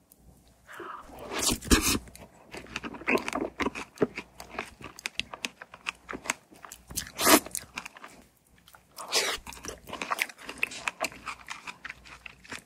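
Close-miked eating: a mouthful of strawberry and whipped cream being bitten and chewed, with crunches and many small mouth clicks. The loudest bites come about 2 s, 7 s and 9 s in.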